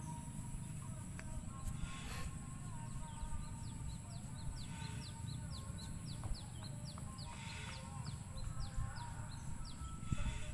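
A bird chirping in quick runs of short chirps, about three a second, over soft background music and a low steady hum.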